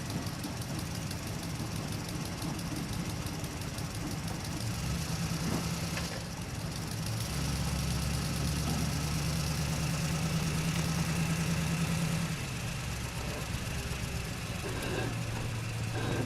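Mitsubishi Canter truck's diesel engine running steadily. It gets louder and deeper for about five seconds in the middle, then eases back.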